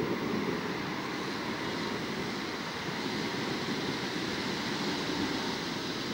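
Steady rushing noise of a thunderstorm: rain and wind pouring down without let-up, with no separate thunderclap.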